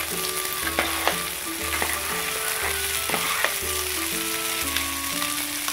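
Green peppercorns and fried catfish sizzling in hot oil in a nonstick frying pan, with a steady hiss. A metal spatula stirring and turning the food gives scattered light clicks and scrapes against the pan.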